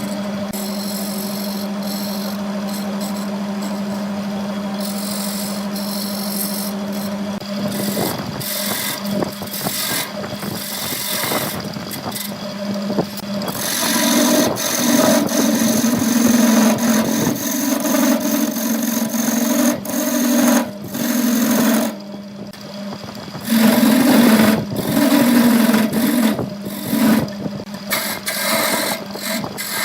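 Wood lathe running with a steady motor hum, then from about eight seconds in a turning tool cuts into the spinning wood, a scraping noise that swells and eases as the cut goes on.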